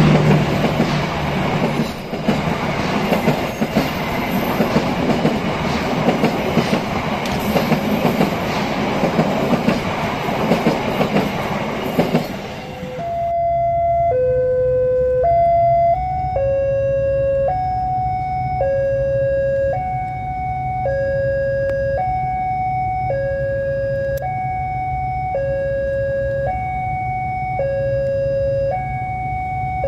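Argo Parahyangan passenger coaches running past at speed, with a loud rush of wheels and the clatter of rail joints. Just before halfway it cuts to a railway level-crossing warning siren that alternates between two tones, high and low, changing about once a second.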